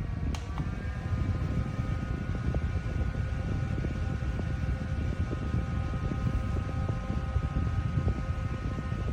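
Small battery-powered portable desk fan running, its motor giving a steady whine over a heavy rumble of air blowing onto the microphone. A click about half a second in, after which the whine's pitch shifts slightly.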